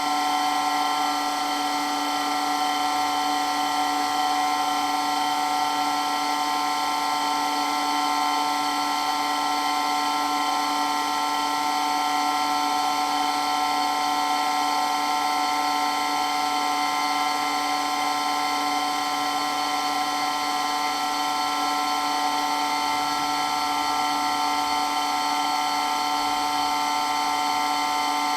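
Water pump running steadily: an even whine made of several fixed tones that holds without change.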